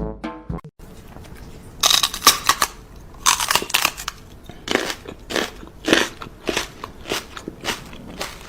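Loud crunchy chewing of something hard and crisp, a bite roughly every half second. Brass music cuts off just under a second in.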